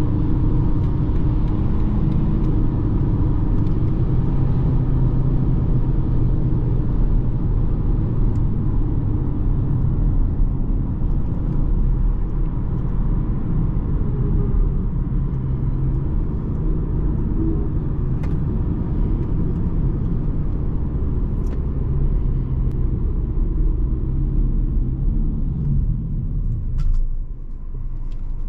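BMW 220d xDrive's four-cylinder diesel and road noise while driving, a steady low rumble that drops in level near the end as the car eases off.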